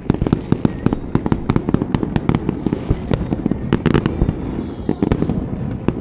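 Aerial fireworks going off in quick succession: a dense run of sharp bangs and cracks, several a second, over a continuous low rumble.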